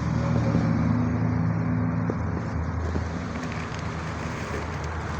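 A motor vehicle's engine running nearby, a low steady hum that swells to its loudest about a second in and then slowly fades, as a passing vehicle does.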